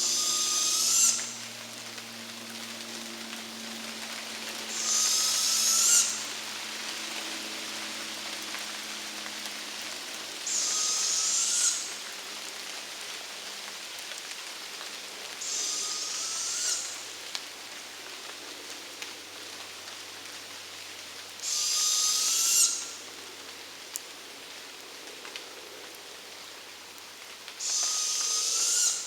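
An unidentified animal's harsh, hissing screech, given six times about every five to six seconds, each call lasting about a second and ending in a short rising note. Steady rain runs underneath.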